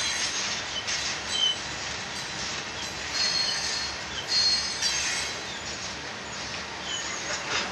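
A string of Herzog ballast hopper cars on a Union Pacific freight train rolling past with a steady rumble of steel wheels on rail. Several short, high-pitched wheel squeals rise above the rumble.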